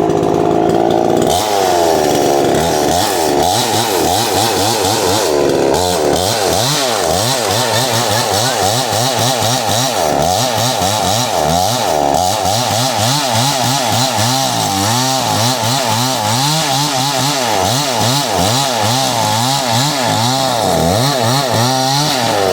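Two-stroke chainsaw cutting through a tree, the engine speed rising and falling constantly as the chain bites into the wood. It winds down at the very end.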